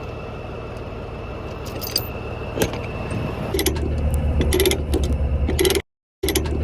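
A diesel engine is running, and about three and a half seconds in it gets louder with a rapid low pulse. Light metallic jingling and clinks sound over it. The sound cuts out briefly near the end.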